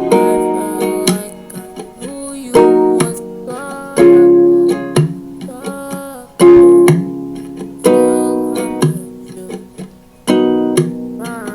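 Music: a guitar strikes chords, each left to ring and die away, with a new chord roughly every two seconds.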